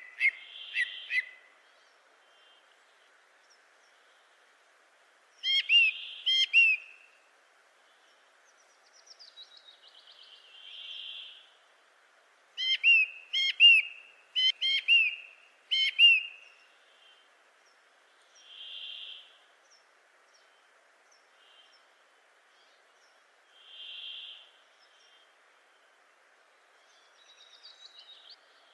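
Birds calling: clusters of two to four sharp, hooked chirps alternate with single soft, blurred notes every few seconds, and there are a couple of quick descending trills.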